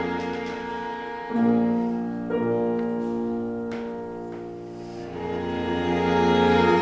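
Piano quartet of piano, violin, viola and cello playing classical chamber music: sustained bowed string chords over piano, with new chords entering about a second and two seconds in. The music fades softer through the middle, then swells louder near the end.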